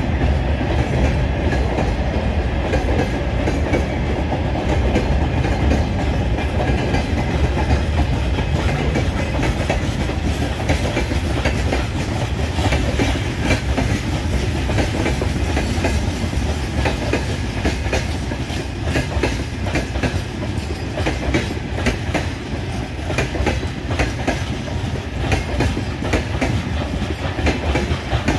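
Freight wagons rolling past: a steady low rumble of steel wheels on rail with repeated clickety-clack as the wheelsets cross rail joints. Open-top gondola wagons pass, then covered hopper wagons near the end.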